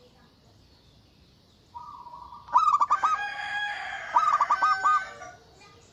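Zebra dove (perkutut) calling: a held note, then two runs of quick, short cooing notes about a second and a half apart, with a louder, longer call between them.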